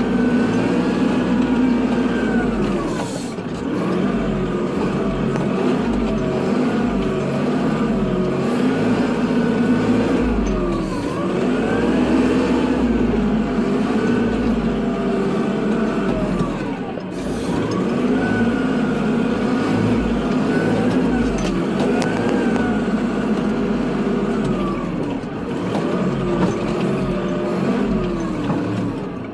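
Kubota tractor's diesel engine running under load while plowing snow, its pitch dropping and climbing back up every several seconds as the engine speed changes.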